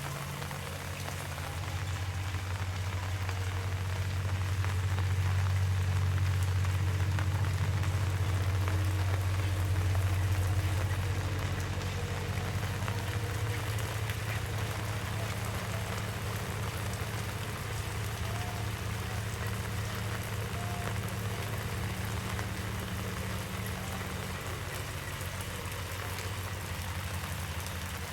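Heavy rain falling steadily, with a low hum underneath that swells a couple of seconds in and eases again after about ten seconds.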